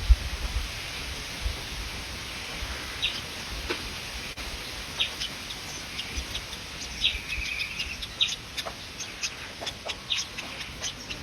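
Short bird chirps and calls scattered at uneven intervals, with one longer held note about seven seconds in, over a low rumble.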